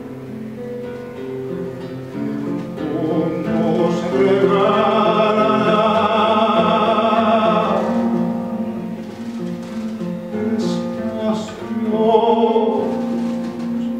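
Acoustic guitar playing with a singing voice that holds one long, wavering note a few seconds in and a shorter one near the end.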